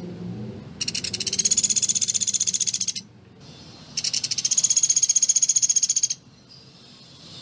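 Pelatuk beras (a small woodpecker kept as a songbird tutor) giving two long, rapid, high-pitched rattling trills of about two seconds each, about a second apart. This is the close-spaced 'shooting' trill prized for tutoring other songbirds.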